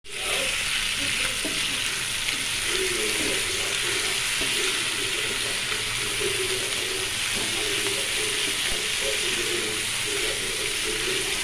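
Beef curry sizzling in a non-stick frying pan with a steady frying hiss, while a wooden spatula stirs and scrapes through it. The thick sauce is cooking down, with the dish nearly done.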